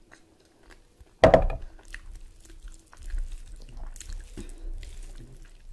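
Chewing and wet mouth sounds of a person eating mutton curry with rice, with a single loud knock about a second in.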